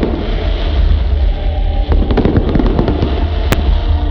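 Fireworks display: a cluster of quick pops and crackle about two seconds in, and one sharp bang about three and a half seconds in, over a steady low rumble, picked up on a phone's microphone.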